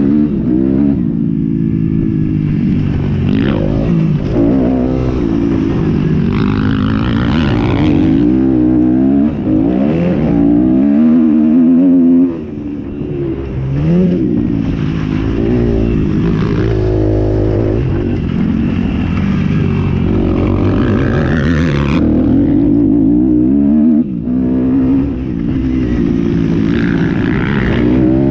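Motocross bikes running hard, their engines revving up and dropping back again and again as they shift and brake, with more than one bike heard at once.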